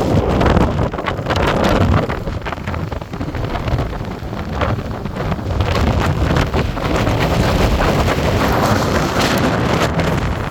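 Strong, gusting wind buffeting the microphone, with waves breaking on the beach beneath it.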